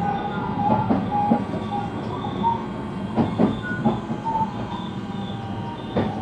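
Running sound inside a JR West 223-series electric train: a steady rolling rumble with the clack of wheels over rail joints, in groups that come further apart as the train slows. A faint inverter motor hum runs through it.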